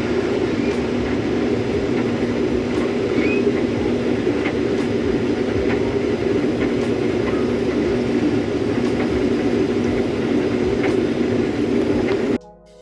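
Case IH combine harvester running steadily under load while harvesting soybeans: a constant drone and hum with faint ticks. It cuts off suddenly near the end and music begins.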